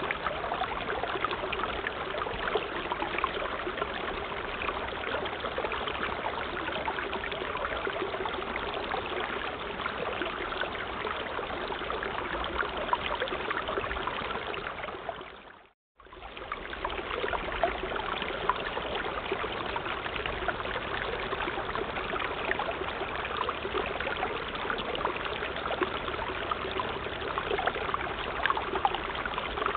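Steady running water, a continuous rush with fine splashing. It fades out to silence for a moment about halfway through, then comes straight back.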